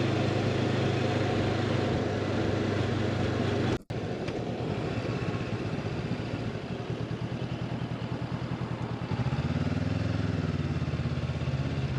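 Motorcycle engine running steadily while riding, with noise from the ride over it. It cuts out abruptly for a moment about four seconds in, then comes back with a fluttering, pulsing note that grows stronger about nine seconds in.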